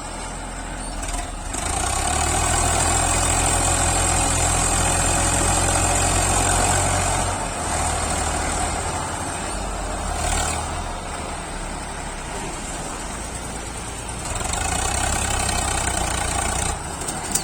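Tractor diesel engine running, revved up for several seconds about a second and a half in, easing back to a lower run, then revved again near the end.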